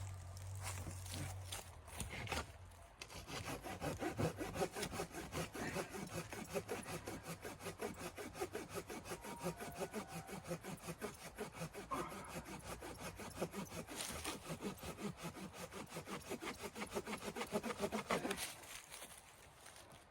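Hand saw cutting through wood in quick, steady back-and-forth strokes, which stop near the end.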